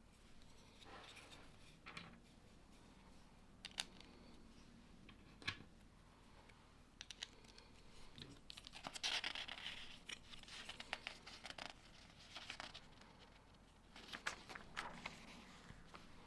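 Lego plastic bricks being handled and snapped together: faint, scattered sharp clicks, with a denser stretch of rustling and rapid clicking about nine seconds in and another near the end.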